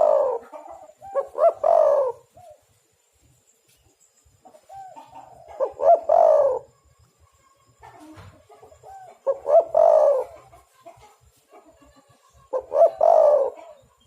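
Spotted dove (tekukur/derkuku) giving its cooing song: short phrases of several coos repeated every few seconds, about five in all.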